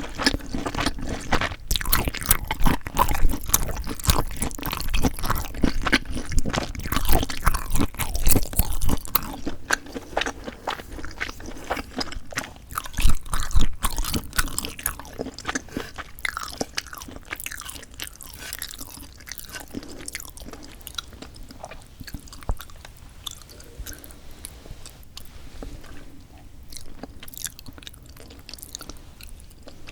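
Close-miked chewing, crunching and biting of food from a meal of golbaengi sea snails and bibim noodles. The bites come thick and loud for about the first half, then the chewing grows sparser and quieter.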